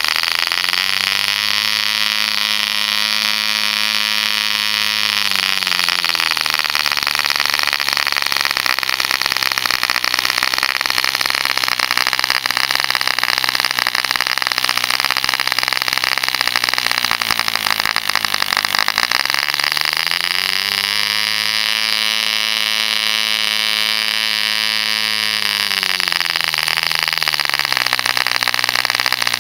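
Mills 0.75 cc model diesel engine with a homemade contra-piston, running flat out with a steady buzz. Twice its note rises, holds for a few seconds and drops back: near the start, and again about two-thirds of the way through.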